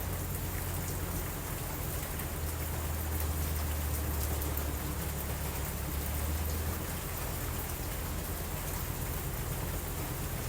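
Steady rain falling, a constant even hiss with a continuous low rumble beneath it and faint scattered ticks of drops.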